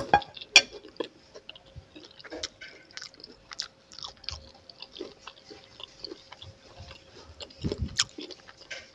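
Close-miked eating: a mouth chewing instant noodles, with irregular wet smacks and clicks and a few sharper crunchy bites. A faint steady hum sits underneath.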